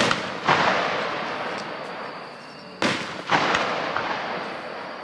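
Aerial fireworks going off: two pairs of sharp bangs about half a second apart, one pair at the start and one about three seconds in. Each bang trails off in a long crackling fizz.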